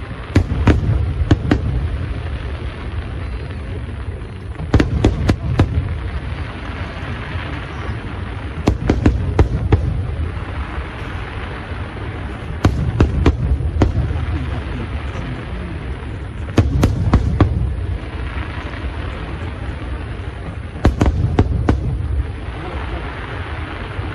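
Aerial fireworks display: clusters of sharp bangs and cracks every three to four seconds, over a steady low rumble.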